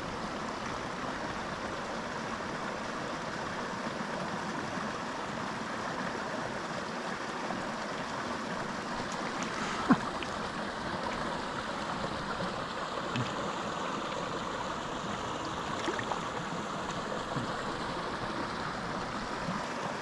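A small mountain creek rushing steadily over rocks. A single sharp click about halfway through, with a few fainter ticks after it.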